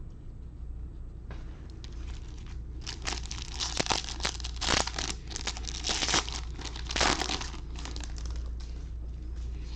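Foil trading-card pack wrapper being torn open and crinkled, in a cluster of crackling bursts from about three seconds in until past seven seconds.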